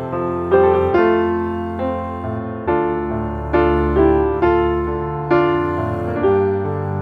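Background piano music: soft chords struck about once a second, each left to ring and fade.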